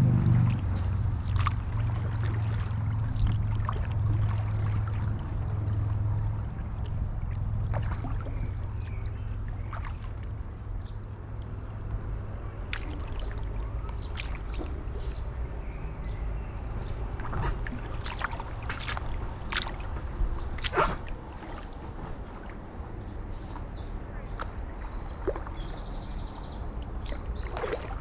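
Stand-up paddleboard paddle working through canal water: scattered splashes and drips over a low wind rumble on the microphone. A bird chirps near the end.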